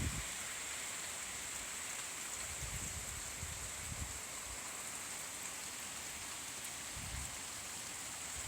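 Steady rain falling, a continuous even hiss, with a couple of faint gusts of wind.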